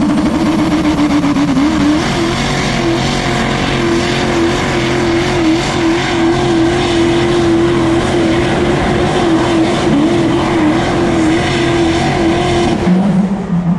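Pulling truck's engine held at full throttle for a long run while dragging the weight sled, its pitch steady with small wavers, then cutting off sharply near the end.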